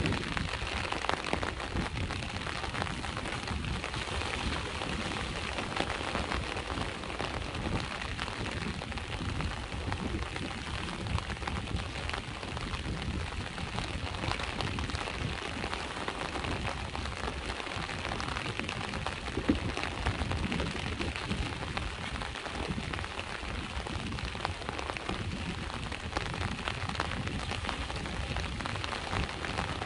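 Steady rain falling, with many close individual drop hits over a continuous low wash that fits sea waves on the shore. One drop hit about two-thirds of the way through is a little louder than the rest.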